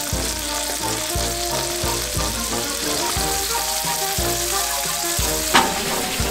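Chopped tomatoes sizzling steadily in hot oil in a frying pan, with one sharp knock near the end.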